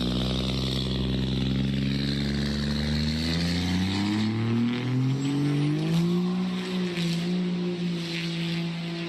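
Truck engine running steadily, then rising smoothly in pitch over about two seconds as it revs or accelerates, and holding at the higher speed.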